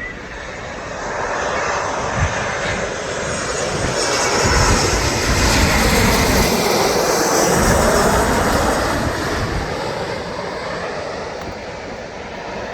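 Jet airliner passing low overhead near the runway. Its engine noise swells over several seconds, peaks in the middle and fades away, with wind buffeting the microphone.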